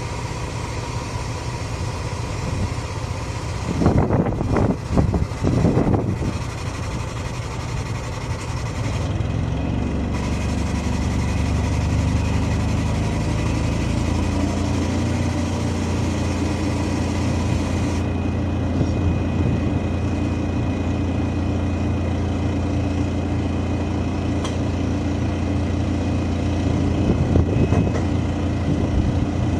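A large engine running steadily. About ten seconds in it speeds up and settles at a higher, steady speed. A few loud knocks and clatter come about four to six seconds in, and again near the end.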